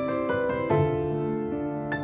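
Soft background piano music, single notes and chords struck a few times a second and left to ring.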